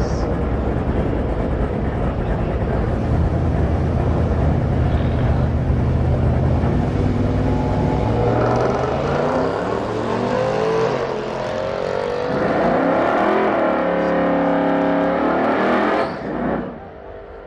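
The 1970 Chevelle Malibu's engine runs in a low, dense rumble, then accelerates hard, its pitch climbing and dropping back several times as it shifts through the gears. It cuts off suddenly near the end.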